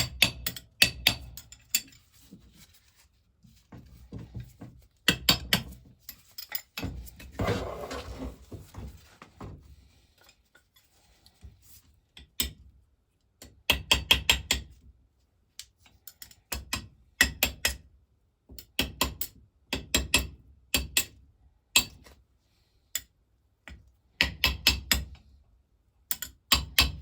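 Small ball-peen hammer tapping on metal in quick flurries of three to six light blows, repeated every second or two, with a brief scraping rub about seven seconds in.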